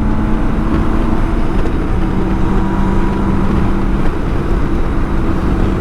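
BMW K1600 GTL's inline-six engine running at a steady cruise under a dense rush of wind and road noise as the motorcycle is ridden.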